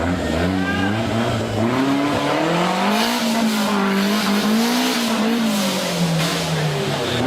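Off-road 4x4 engine revving, its pitch rising and falling several times as the throttle is worked.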